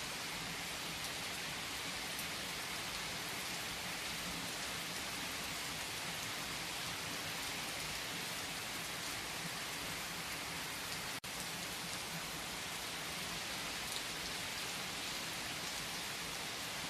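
Steady rain falling, an even hiss, with a split-second dropout about eleven seconds in.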